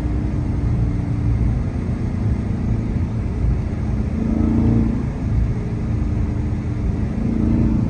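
Dodge Charger Hellcat's supercharged 6.2-litre Hemi V8 running while cruising: a steady low exhaust drone, with the engine note swelling briefly about halfway through and again near the end.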